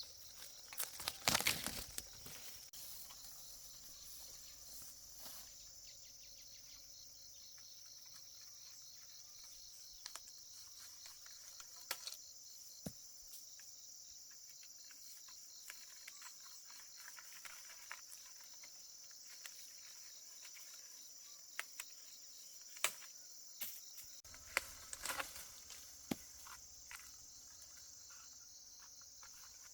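Insects chirping in a steady, high-pitched drone, with scattered clicks and knocks; the loudest knocks come about a second in, and another cluster near the end.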